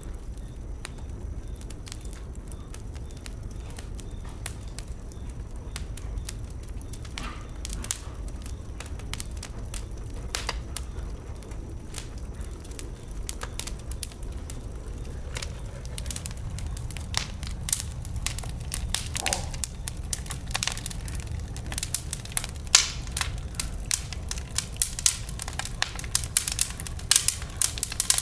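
Wood burning in a bonfire: scattered crackles and pops over a low steady rumble, the crackling growing denser over the last several seconds.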